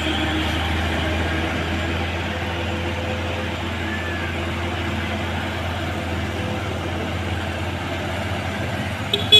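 Heavy Fuso truck's diesel engine running with a steady low drone as it climbs the hill, easing off slightly after a couple of seconds. A sharp click comes near the end.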